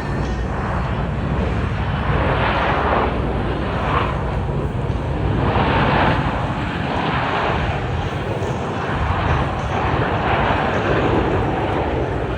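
Engine roar of a Blue Angels demonstration aircraft flying overhead, swelling and easing several times as it manoeuvres.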